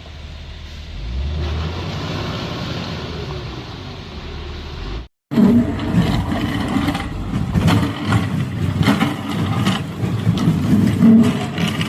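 A vehicle engine running with a steady low rumble; after an abrupt cut about five seconds in, a louder stretch of engine rumble mixed with many short knocks and clattering.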